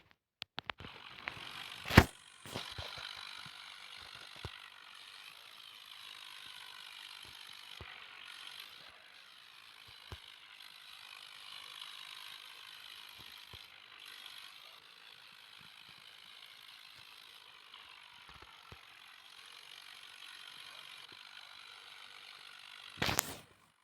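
A small geared mechanism whirring steadily with a wavering pitch. There is a sharp click about two seconds in and a short clatter of clicks near the end.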